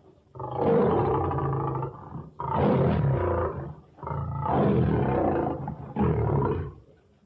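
Stock sound-effect big-cat roars and snarls, four loud, rough calls in quick succession, each lasting a second or two.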